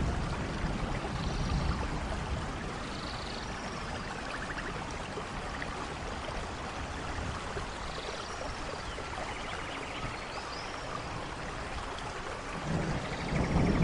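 Steady rain falling in a forest, with the low rumble of thunder dying away at the start and another rumble of thunder building near the end. Faint high chirps are heard now and then over the rain.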